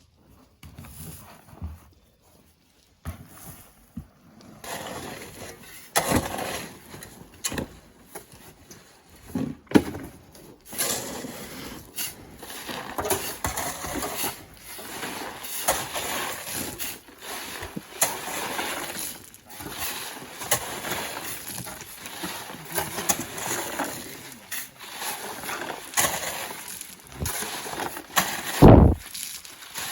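Sand being loaded into a truck by hand: irregular scrapes and thuds, with a heavier thud near the end.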